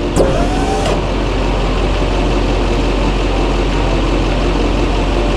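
Chevy K3500's Duramax diesel V8 running steadily at idle.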